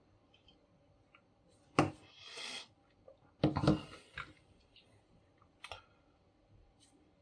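Small laminator motor and gear parts being handled on a work surface: a sharp click, a brief scrape, then a short clatter of knocks and clicks, and one more click later.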